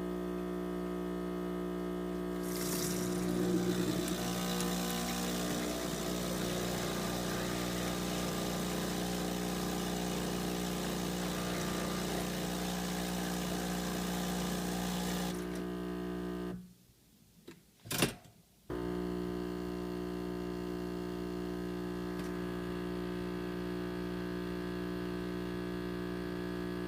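Breville Dual Boiler espresso machine giving off a loud, steady buzz with a stack of overtones, which the owner fears means the six-month-old machine is failing. For roughly the first half a hissing rush sits over the buzz; past the middle the sound cuts out for about two seconds with one sharp click, then the buzz comes straight back.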